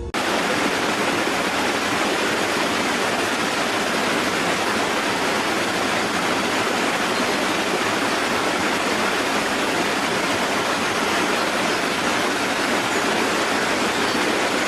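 Steady, even rushing noise, like running water, that cuts in suddenly and holds at an unchanging level.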